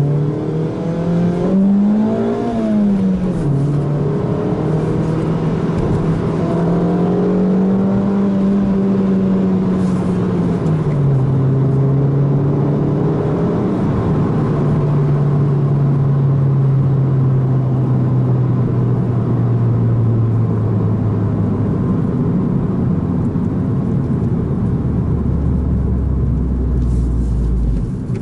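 Suzuki Swift Sport ZC32S's 1.6-litre four-cylinder engine running through a Rosso Modello aftermarket exhaust. The revs rise to a peak about two seconds in and fall back, then hold steady. They step down about eleven seconds in, sink slowly, and drop lower near the end.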